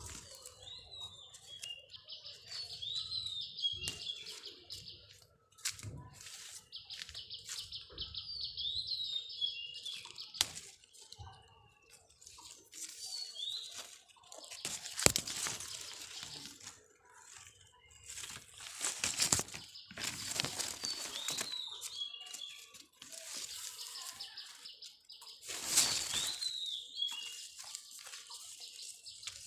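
Birds chirping, with repeated short rising-and-falling calls over a steady high-pitched chatter. A few louder brushing noises come about halfway through and again near the end.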